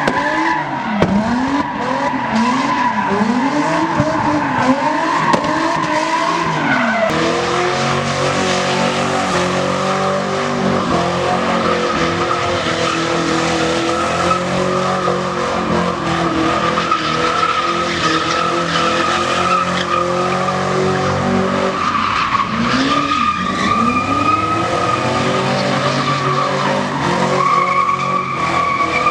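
A vehicle doing burnouts and drifting: tyres squealing without a break over a hard-revving engine. The pitch swells up and down about once a second in the first several seconds and again later on, with a steadier squeal in between.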